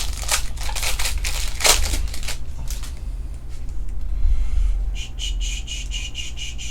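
Foil trading-card pack wrappers crinkling and cards being handled, in irregular rustles. Near the end comes a quick run of short squeaky scrapes, about six a second, over a steady low hum.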